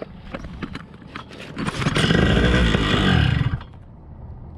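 Paramotor engine starting about a second and a half in, running loudly for about two seconds, then dying. It starts right up and dies: the engine is not running properly.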